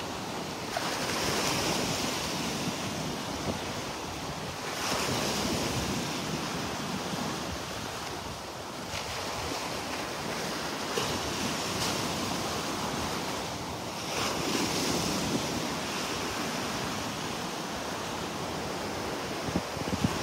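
Gulf surf breaking and washing up the beach, swelling into louder hissing washes every few seconds, with wind rumbling on the microphone.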